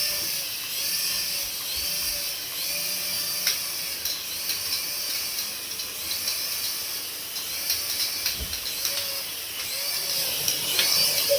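Small electric motor of a remote-control toy running steadily, with a whirring pattern that repeats about once a second.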